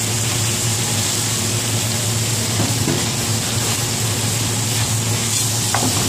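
Diced ham, onion, peas and carrots sizzling steadily in hot bacon fat in a large metal pot, with a metal spatula scraping through them near the end. A steady low hum runs underneath.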